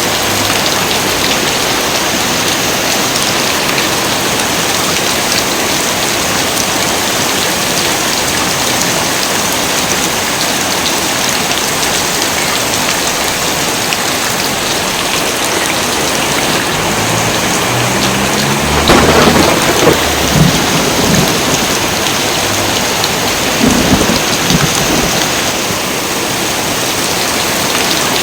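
Heavy rain pouring steadily. About two-thirds of the way in, a sharp crack of thunder with low rumbling, then a second, smaller thunderclap a few seconds later.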